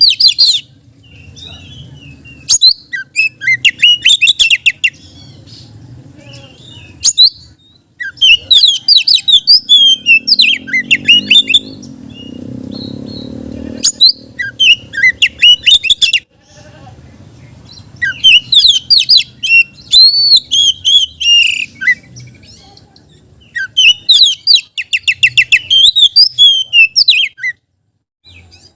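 Oriental magpie-robin (kacer) singing loudly in bursts of varied, rapid song phrases. It repeats a phrase every few seconds, with short pauses between, and some phrases are fast runs of repeated notes.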